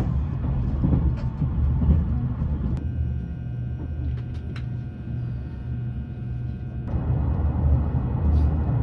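Train carriage running, heard from inside the passenger cabin: a steady low rumble with a few faint clicks. The sound thins out between about three and seven seconds in.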